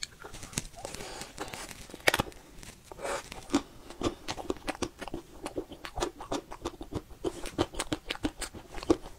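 Close-miked chewing of a crisp chocolate shell: irregular crunches and small mouth clicks, several a second.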